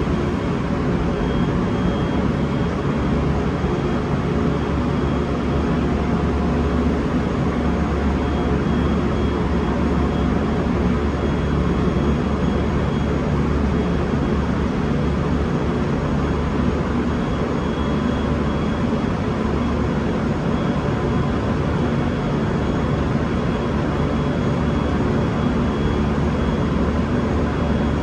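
Train at a station giving a steady low rumble and hum that does not change, with a few faint steady whining tones over it.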